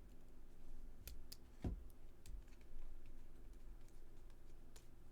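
Baseball trading cards being handled and flipped through: a handful of light, scattered clicks and taps over a low steady hum.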